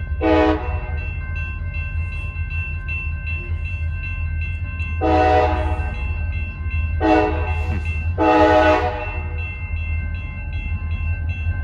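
CSX diesel locomotive running light, sounding its multi-tone air horn in four blasts (short, long, short, long) over the steady rumble of its engine. A grade-crossing bell rings steadily underneath.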